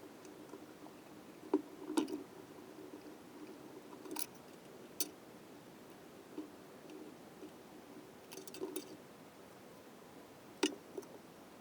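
Scattered light clicks and clinks of metal engine parts and hand tools being handled during assembly of a small engine's cylinder and head. The clicks come singly or in short clusters, several seconds apart, over a faint steady hum.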